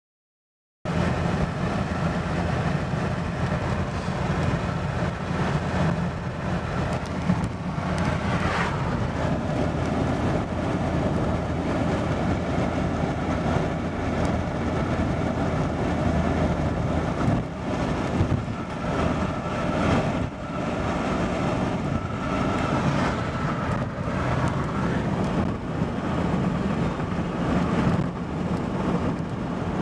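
A train going by: a diesel locomotive's engine running steadily with the rumble and clatter of the train on the rails. It starts abruptly about a second in.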